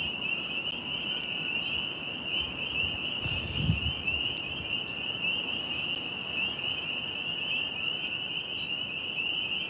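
Night insects chirring in a steady, high-pitched, unbroken chorus, with a soft low bump about three and a half seconds in.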